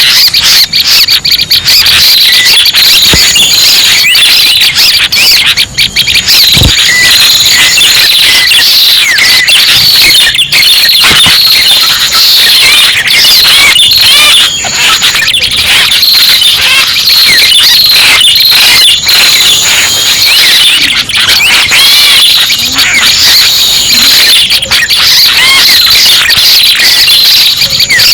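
Red-headed prenjak bird-lure call: dense, loud, unbroken high-pitched chirping and trilling, with a higher shrill note coming back every few seconds, played as a lure to attract prenjak birds for trapping.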